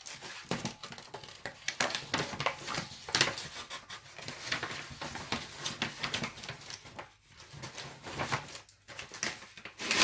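Packaging around a laptop motherboard being opened by hand: plastic wrapping crinkling and rustling, with small irregular clicks and taps.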